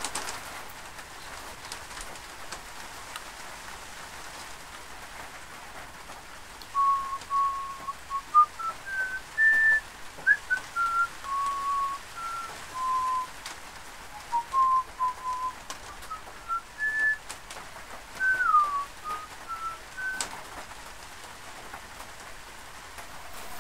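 A slow tune whistled as single clear notes, some held and some sliding, that wander up and down, starting about seven seconds in and stopping about twenty seconds in. A steady hiss lies underneath.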